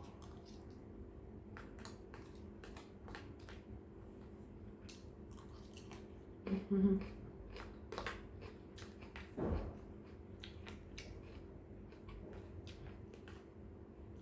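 Close-up eating sounds: chewing with many small sharp mouth clicks and smacks, a brief hummed "mm" about halfway through and a single soft thump a little later.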